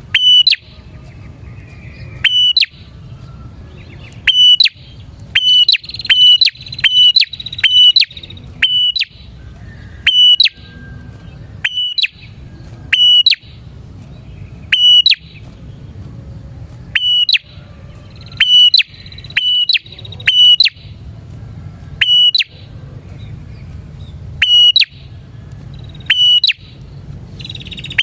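Prinia (prenjak) calling loudly, sharp high notes repeated every second or two and sometimes in quick runs, with a fainter high trill between them. A steady low hum runs underneath.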